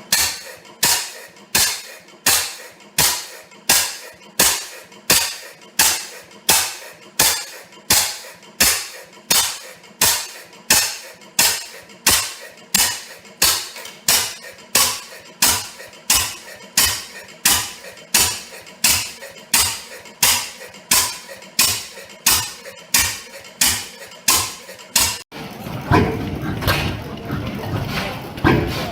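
Old Fairbanks Morse stationary engine running slowly, each firing a sharp exhaust crack, about four cracks every three seconds in an even beat. Near the end it cuts off abruptly and a rougher, denser steady noise takes over.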